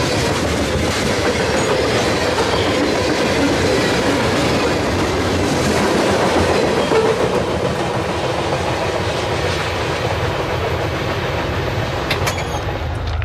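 Freight train cars rolling past, a steady loud rumble with wheels clacking over rail joints, easing slightly in the second half.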